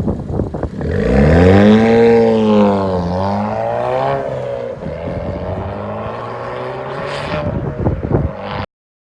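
Suzuki Swift Sport's exhaust through a custom stainless-steel silencer with built-in valve: the engine is revved once, rising and falling over about two seconds, then settles to a steady idle. A few sharp clicks or knocks near the end.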